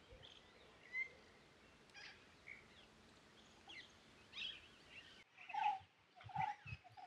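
Faint birdsong: scattered short chirps and calls, with a few lower, steadier calls in the last two seconds.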